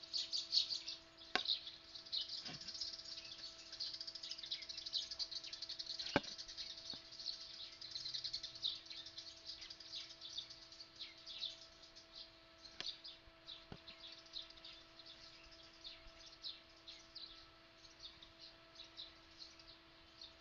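Small birds chirping and twittering rapidly and continuously, densest in the first half and thinning out later, with a few sharp clicks and a faint steady hum underneath.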